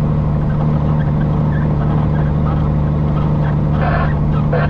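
Peterbilt semi truck's diesel engine running at a steady cruise, a constant drone heard from inside the cab. Two short higher sounds break in near the end.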